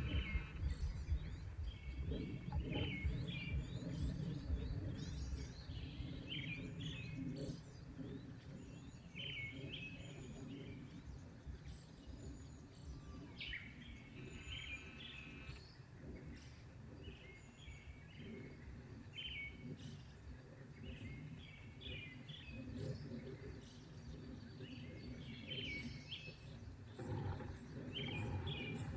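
Small birds chirping and calling in many short, quick notes through the whole stretch, over a steady low rumble.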